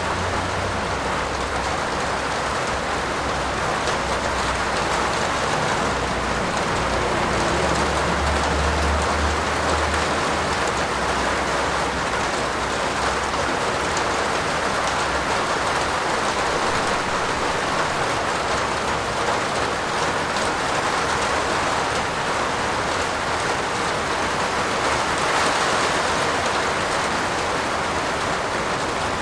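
Steady heavy rain falling on a roof, an even hiss of drops, with a low rumble underneath for the first ten seconds or so.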